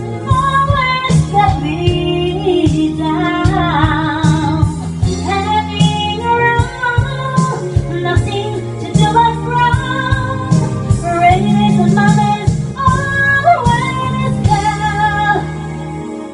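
A woman singing a slow pop ballad over a full band backing track, her held notes wavering with vibrato. The backing drops away just before the end.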